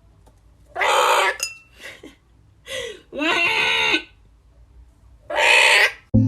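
A bird giving several harsh, screeching calls, each under a second long, with short pauses between them.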